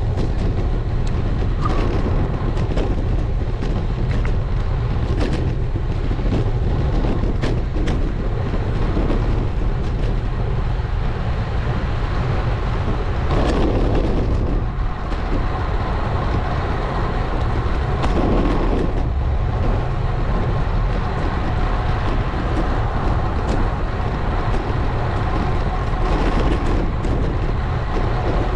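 Wind rushing over an action camera's microphone, with tyre and road noise from a road bike riding along at an easy pace. The noise is steady and heaviest in the low end, with two brief swells a little past halfway.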